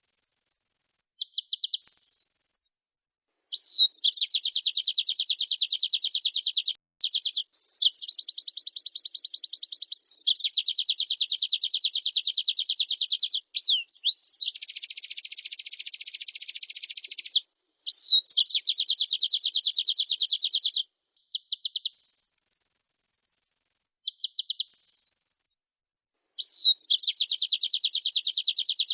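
A white-eye (pleci) singing a long, varied song of rapid, high-pitched chattering trills in bursts of one to three seconds with short pauses between them. Some phrases are very high and shrill, once near the start and again in the last third.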